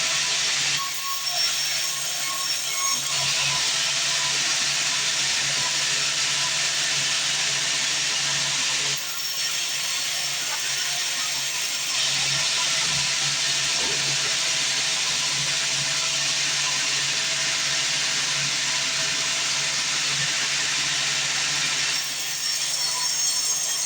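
Sawmill band saw cutting through a log: a steady, dense hissing cut noise that shifts in character several times as the cut goes on.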